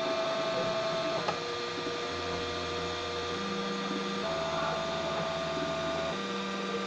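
3D printer's stepper motors running through a print, giving steady tones that change pitch every second or two as the moves change, with one short click about a second in.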